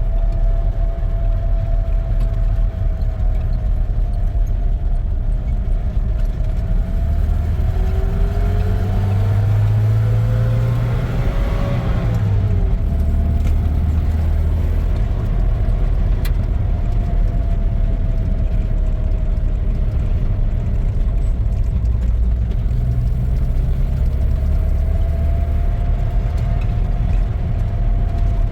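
A motor vehicle's engine running steadily as it drives, a constant low rumble with a drifting engine note; about a third of the way through the engine note rises and then drops back.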